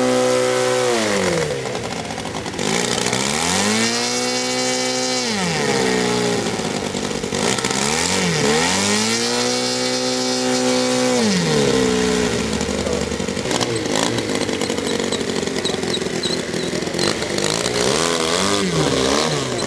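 An engine revving up and down in repeated swells, holding a high pitch for a second or two each time before dropping back. After about twelve seconds it settles into a rougher, more even running sound.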